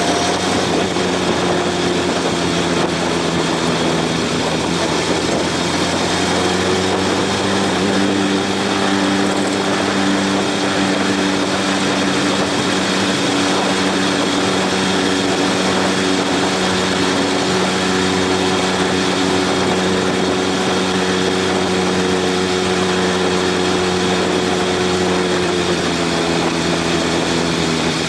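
Honda CB750 inline-four motorcycle engine running at a steady cruising speed, with wind rushing past. The engine note holds nearly level and drops slightly near the end.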